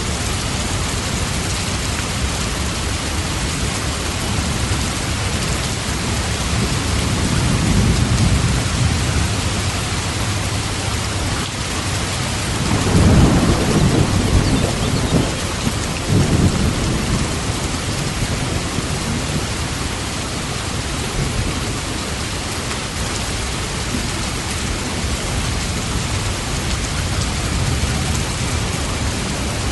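Steady heavy rain with thunder: a low rumble swells about a quarter of the way in, and a louder rolling rumble with several surges comes near the middle.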